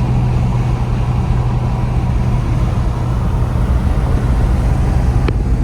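A 33-year-old Mercedes-Benz cruising at steady speed, its engine and road noise making a constant low drone. There is one short click near the end.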